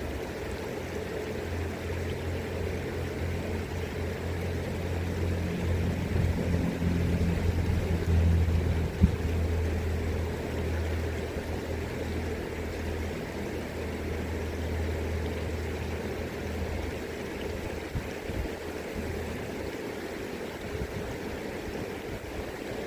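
River water flowing steadily, with a motor engine's low hum passing by: it grows louder to a peak about eight seconds in, then fades away by about seventeen seconds, leaving only the river.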